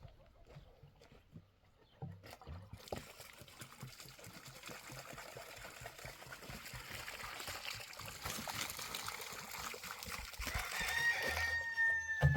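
A rooster crows once near the end: one long call that drops in pitch as it finishes. Underneath, a steady hiss starts a few seconds in and slowly grows louder.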